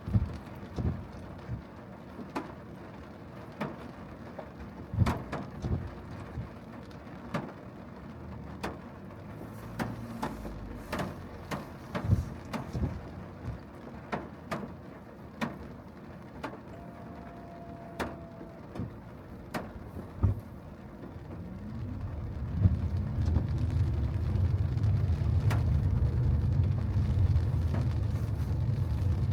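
Raindrops tapping irregularly on the car, sharp single taps about a second apart over a quiet background. About three-quarters of the way through, a low rumble of the car driving on wet road rises and holds.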